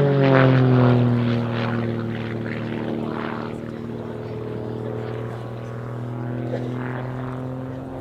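Grob Tutor light propeller aircraft flying an aerobatic display: its engine and propeller drone drops in pitch in the first second, holds steady, then rises slightly near the end.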